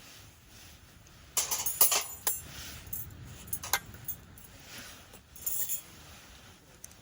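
Light clinking and rattling of handled camp gear in several short bursts, the loudest about one and a half to two and a half seconds in.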